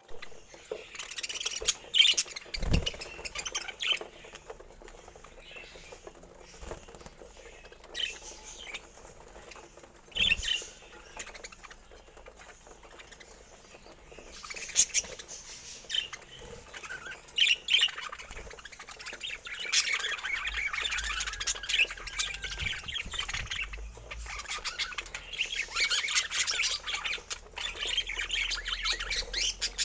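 Budgerigars chirping and squawking in scattered calls, turning into dense continuous warbling chatter from about two-thirds of the way through. Two low thumps fall near the start.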